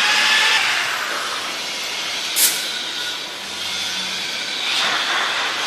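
Six-inch dual-action sander with a 3000-grit foam-backed sanding disc spinning up and running with a steady whirring hiss. A brief sharp hiss comes about two and a half seconds in.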